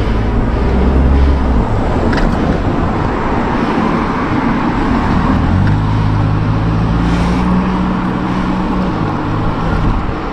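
Motor traffic passing close on the road: a car engine's low hum near the start and another from about six to nine seconds in, over steady road and wind noise.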